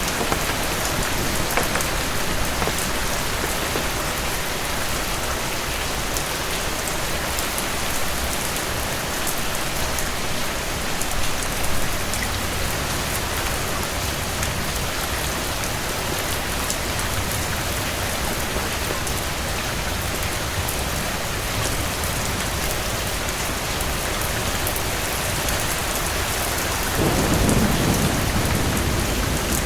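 Steady rain falling, a dense even hiss, with a low rumble of thunder rising near the end.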